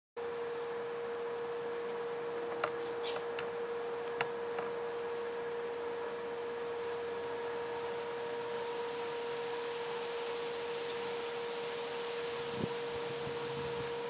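A steady hum-like tone under light hiss, with short, very high-pitched bird chirps every one to two seconds and a few faint clicks between about two and five seconds in.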